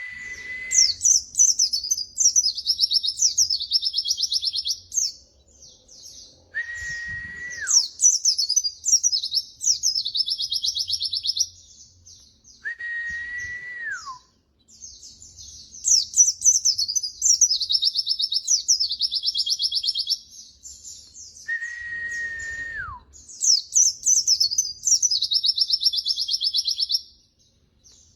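White-eye (pleci) song on a master training recording: a repeated phrase of a level whistle that drops in pitch at its end, followed by high, rapid twittering and a fast trill. The phrase comes round about every six to seven seconds.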